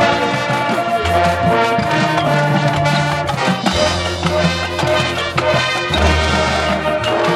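High school marching band playing its field show: brass over drums, with long held low bass notes.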